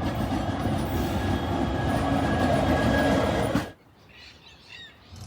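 Grain train wagons rolling past with a loud, steady rumble of wheels on rail and a faint thin wheel squeal. The sound cuts off abruptly about two thirds of the way in, leaving a much quieter stretch with a few faint high calls.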